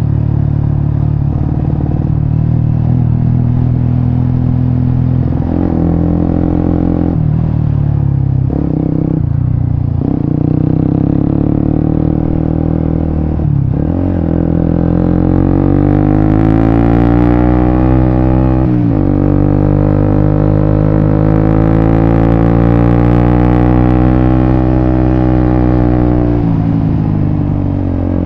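Suzuki GSX-S150's single-cylinder engine running through a Quinze Big Volume aftermarket exhaust while being ridden. The note dips briefly several times in the first half, then rises steadily under acceleration in the middle and drops suddenly at a gear change. It then holds a steady cruising note before easing off near the end.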